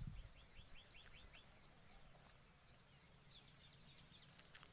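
Near silence with faint bird chirps in the background: a quick run of short chirps early in the first second and a half, and a few more near the end.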